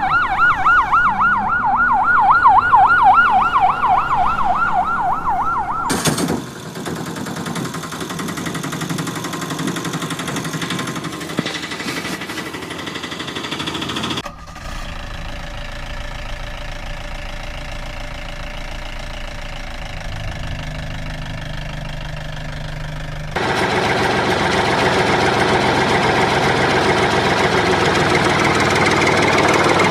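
A fast warbling siren wails for about six seconds and stops abruptly. It gives way to steady mechanical running noise from engines or motors, which changes character suddenly twice and is loudest near the end.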